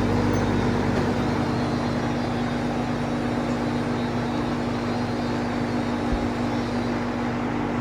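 Vintage Sears box fan running on high: a steady rush of air from the blades over a steady electric motor hum.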